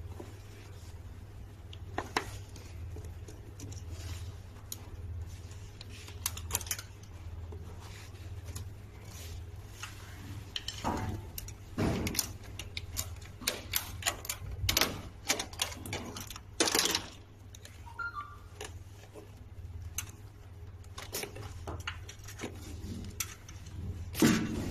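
Irregular clicks, taps and rattles of small metal parts and hand tools being handled while wiring is taken apart, over a steady low hum. The clicks come thickest and loudest in the middle and again just before the end.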